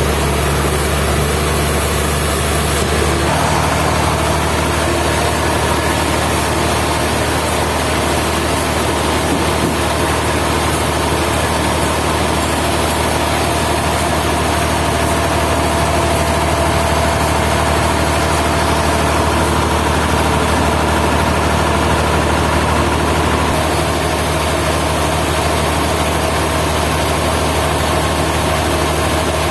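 Sawmill machinery running steadily with a loud, even mechanical drone. Its tone shifts about three seconds in.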